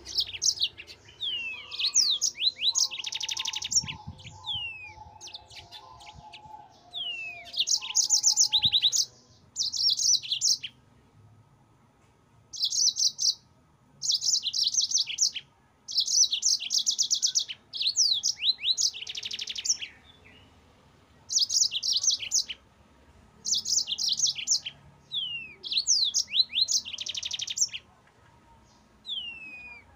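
Yellow-fronted canary (Mozambique canary) singing in repeated bursts of rapid high trills and quick down-slurred whistles, with short pauses between phrases.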